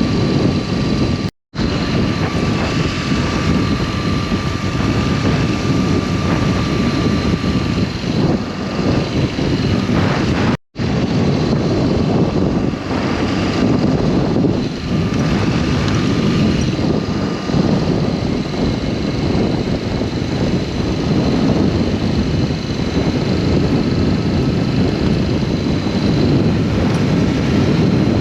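BMW R1200S boxer-twin engine running with wind noise while riding at a steady pace. The sound cuts out briefly twice.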